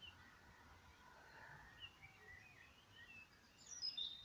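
Faint, scattered bird chirps over a quiet background, with a short louder run of high chirps near the end.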